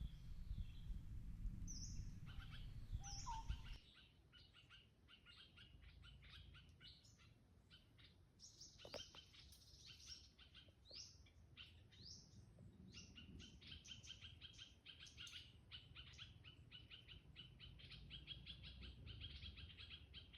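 Birds chirping and singing, with many short, high calls. A low rumble under the first few seconds stops abruptly about four seconds in. From about halfway through, one bird keeps up a fast, rapidly repeated chirping trill.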